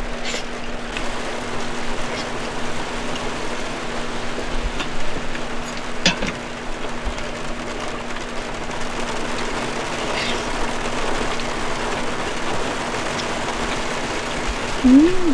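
Steady hiss of rain falling around the car, with a faint steady hum under it. A few light clicks of chopsticks and a metal cup, and a short hummed "mm" from the diner near the end.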